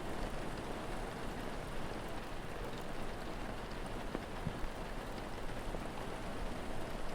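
Steady rain falling, with a few faint crackles of a wood fire.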